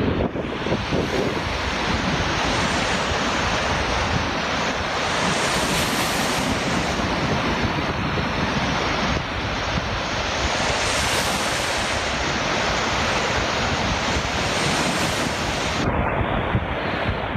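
Black Sea waves washing onto the beach, with strong wind buffeting the microphone. The high hiss of the surf swells twice, about six and eleven seconds in, as waves break.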